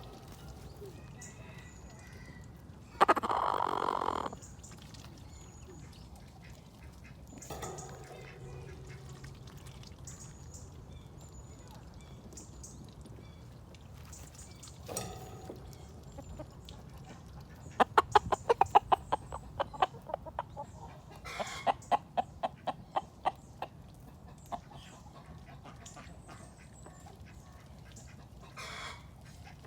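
Chickens clucking and calling: one loud call about three seconds in, then two quick runs of rapid clucks past the middle.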